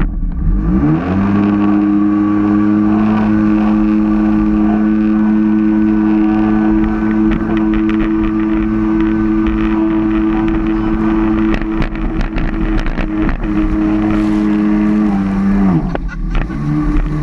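Jet ski engine revving up about a second in, holding a steady pitch at speed, then throttling back to a lower pitch near the end. Scattered crackles sound over the engine in the middle.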